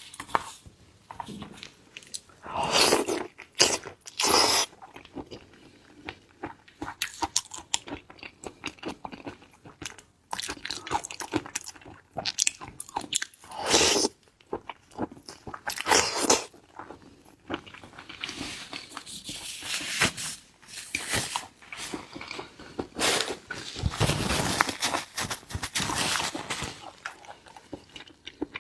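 Close-miked eating: repeated crunching bites and chewing of painted spiny lobster, in irregular bursts of sharp crunches with louder clusters scattered through.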